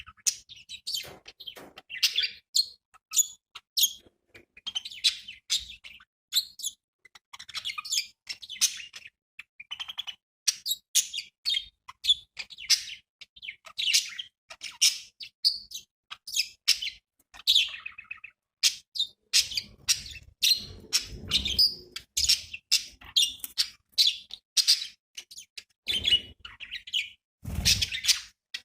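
Budgerigars chirping and warbling, a dense, fast chatter of short high calls from several birds. Twice near the end there is a brief low rustle or flutter beneath the calls.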